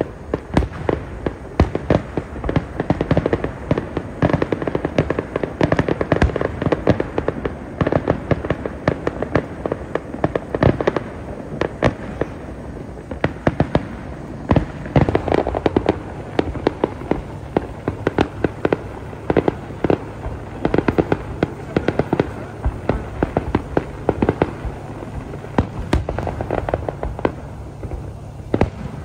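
Aerial fireworks display: shell bursts going off in quick succession, a dense string of bangs and crackles several a second.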